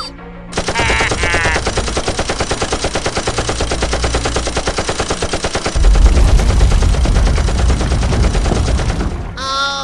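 Rapid, evenly repeating gunfire sound effect, like a machine gun, starting about half a second in and growing louder and deeper from about six seconds in.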